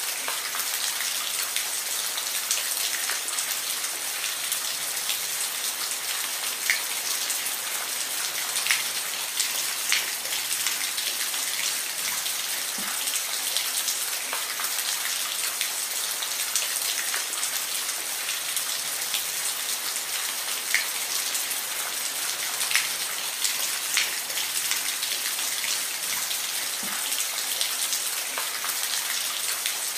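Steady rain falling, with individual drops ticking sharply now and then on a hard surface.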